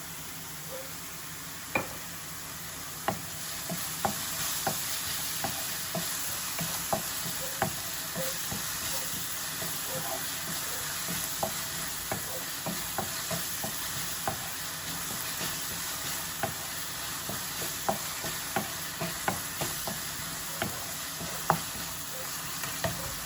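Onions with ginger-garlic paste and spices sizzling in oil in a cooking pot, stirred with a spoon that clicks against the pan about once a second. The masala is being sautéed until the oil separates.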